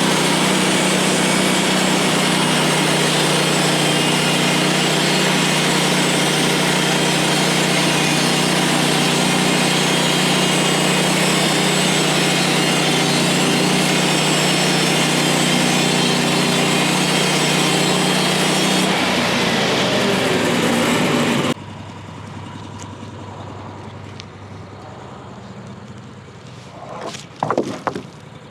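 A portable bandsaw sawmill's gas engine running at high throttle while the band blade cuts through a pine log, steady and loud. About 19 s in the pitch shifts, and a couple of seconds later the sound drops abruptly to a much quieter engine idle, with a few short knocks near the end.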